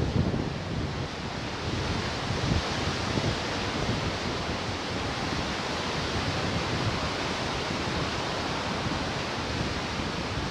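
Ocean surf washing steadily on the shore, with gusts of wind buffeting the microphone.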